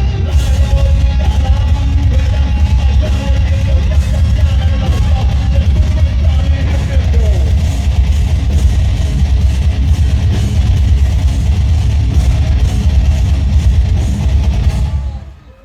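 Live heavy rock band playing loudly, with distorted electric guitars, drum kit and a heavy bass low end; the music stops about fifteen seconds in as the song ends.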